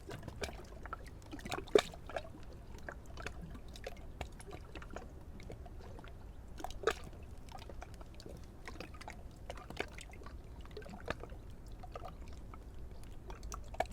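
Lake water gurgling and clucking at the shore edge ('Glucksen'): irregular small plops and gulps, with two louder ones about two and seven seconds in. The lake is at flood level, right up to the edge.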